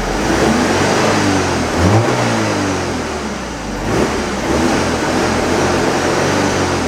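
BMW N42B20 2.0-litre four-cylinder Valvetronic engine running after its first start following the swap, blipped a few times so the pitch rises and falls, most strongly about two seconds in and again about four seconds in. It runs smoothly, which the owner takes for a very healthy engine.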